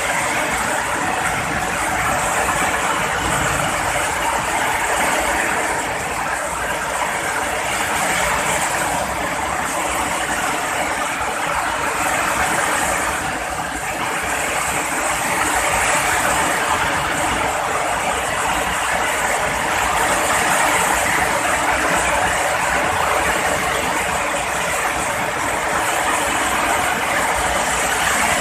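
Heavy rain pouring down steadily, a dense even hiss that swells and eases slightly every few seconds.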